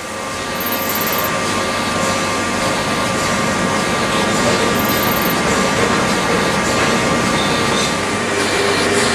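A small model engine running steadily, with a few steady tones above its even mechanical noise.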